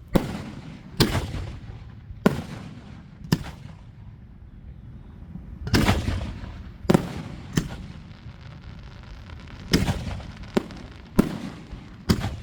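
Aerial fireworks shells bursting: a run of about eleven sharp booms at uneven intervals, each trailing off in a rolling echo, with a pause of about two seconds midway.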